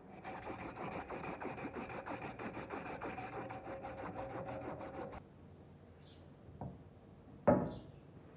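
Quick rasping strokes of an abrasive on a metal blade, about six a second, with the blade ringing faintly under them; the strokes stop abruptly about five seconds in. A sharp knock follows about two seconds later.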